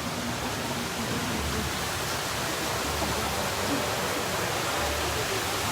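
A steady, even rushing noise with no clear tone or rhythm.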